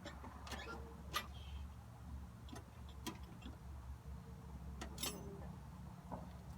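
Scattered light clicks and knocks of hand tools on bolts under a car, a few at irregular intervals, over a low steady hum.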